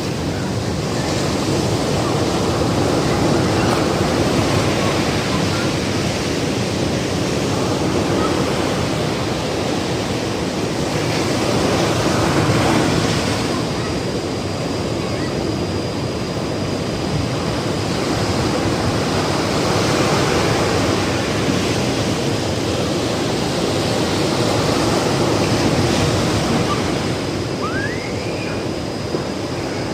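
Ocean surf breaking and washing up the beach, a steady rushing that swells and ebbs with each wave.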